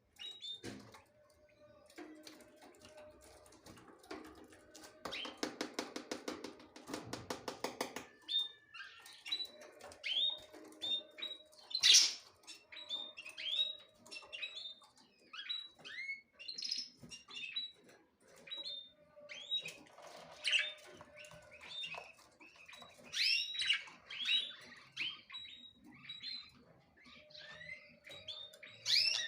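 Small birds chirping repeatedly in short, quick falling notes, several calls overlapping. About five seconds in, a buzzy rapid rattle runs for a few seconds.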